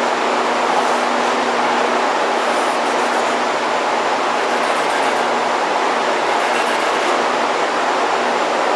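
A steady, unchanging mechanical rushing noise with a faint low hum underneath.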